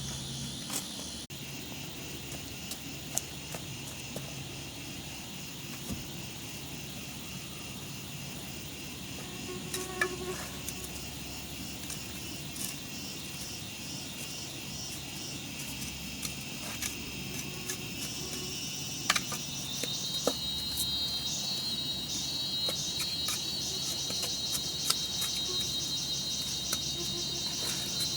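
Insects, such as crickets, calling steadily in a high-pitched hum that grows louder about two-thirds of the way through, with a few faint clicks scattered throughout.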